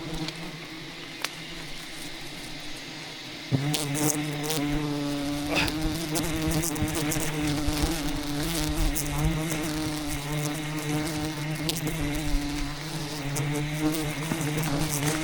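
Honeybees buzzing in a swarm around their nest, a steady drone that grows suddenly louder about three and a half seconds in as bees come close.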